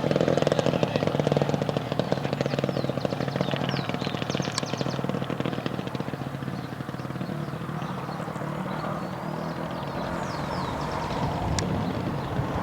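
Racing kart engines running with a fast buzzing pulse, loudest at first and fading over several seconds.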